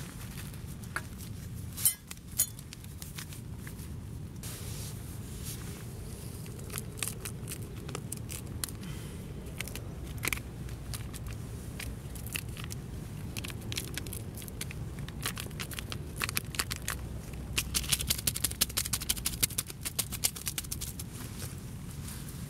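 Hands handling camp cooking kit around a metal mess tin and enamel mug: scattered small clicks, scrapes and knocks, with two sharper knocks about two seconds in and a quick run of rapid light clinks near the end.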